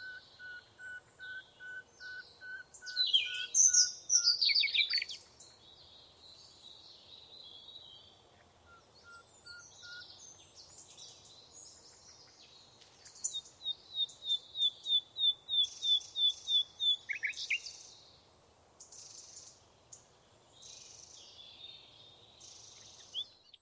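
Several songbirds singing and calling. One repeats a single note about three times a second for the first four seconds, and near the middle another gives a quick run of about a dozen even notes.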